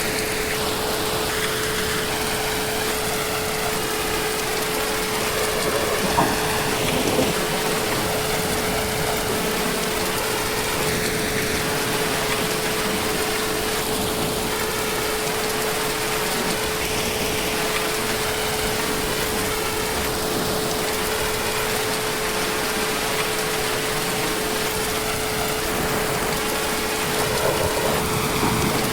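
Heavy, steady rain falling, an even rushing hiss with a faint steady tone underneath and a couple of slightly louder splashes about six seconds in and near the end.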